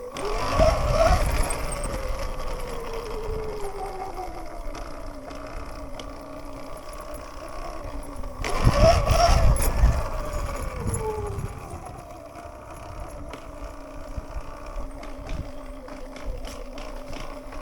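Sur-Ron electric dirt bike's motor whining, rising in pitch as it accelerates and then gliding slowly down as it slows. This happens twice, with wind rushing over the microphone at each burst of speed.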